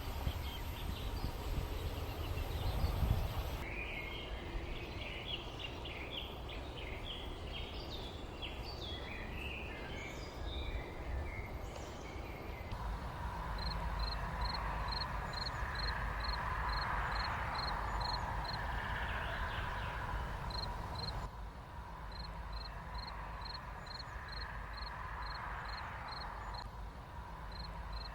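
Countryside ambience of small birds chirping over a steady low rumble. Partway through it gives way to a short high note repeated about twice a second, and the background changes abruptly a few times.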